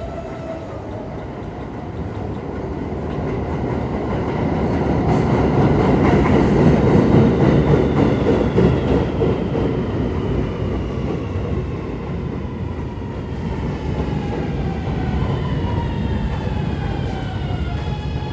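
R211A subway train running through the tunnel: a loud rumble of wheels on rail that peaks midway. Over the last several seconds the propulsion whine falls steadily in pitch as the train slows.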